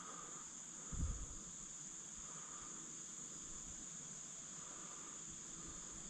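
Steady high-pitched chorus of crickets and other insects in woodland, with faint repeating calls lower in pitch behind it. There is one low muffled bump about a second in.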